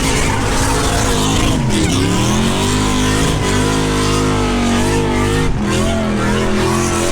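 V8 engine held at high revs in a burnout. The revs drop briefly about two seconds in, then climb back and hold, wavering.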